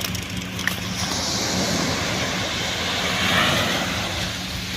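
Tractor engine running steadily while it hauls a beach seine net, with a rush of surf swelling up and fading away about a second in.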